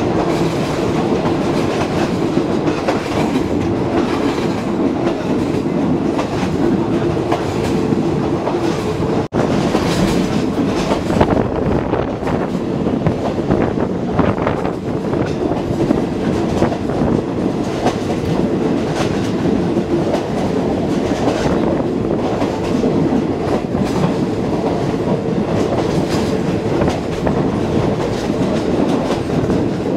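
Passenger train running along the line, with a steady rumble and hum and the wheels clacking over the rail joints. The sound drops out for a moment about nine seconds in.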